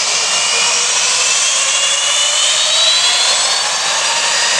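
Boeing 757's twin turbofan engines at take-off power: a loud, steady rush with several whining tones slowly rising in pitch.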